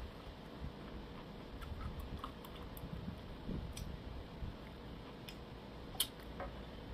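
A person chewing a mouthful of food, with scattered small clicks and one sharper click about six seconds in.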